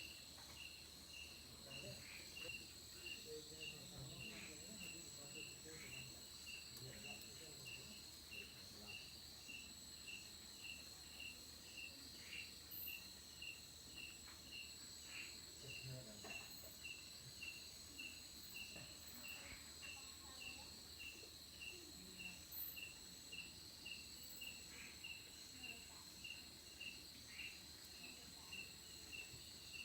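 Faint insects chirping: a regular high chirp about twice a second over a steady high-pitched buzz.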